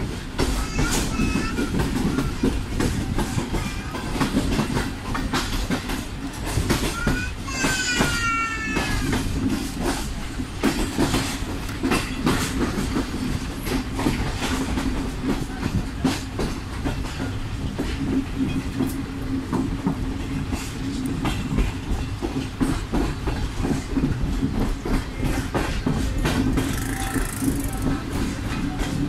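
Passenger train running, heard from on board: a steady rumble with the wheels clicking over rail joints and a constant hum. About eight seconds in there is a brief rising high-pitched call.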